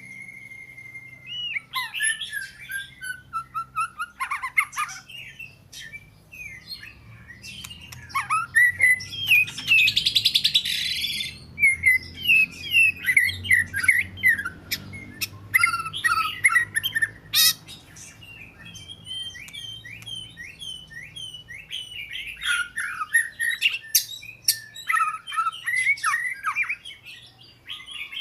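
Oriental magpie-robin singing a varied run of clear whistled phrases with sliding notes. About nine seconds in comes a harsh, rasping note lasting two seconds or so.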